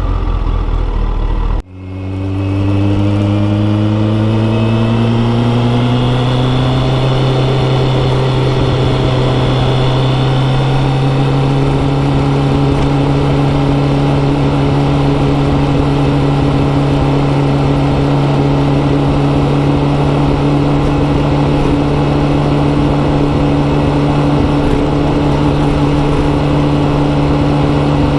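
Kawasaki ZX14R's inline-four engine through a Yoshimura exhaust, heard while riding. After a sudden brief dip near the start, the engine note climbs steadily for several seconds as the bike accelerates. It then settles into a steady drone at cruising speed.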